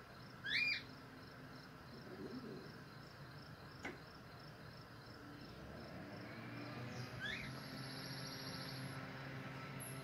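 A bird's short rising whistled chirp about half a second in, and a fainter one around seven seconds, over a steady, faint, high, pulsing insect-like trill.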